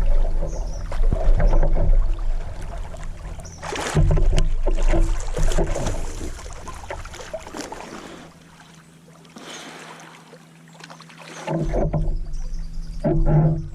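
Water splashing and sloshing around a kayak as someone moves in the water beside it, with a loud rush of noise about four seconds in and a quieter stretch past the middle.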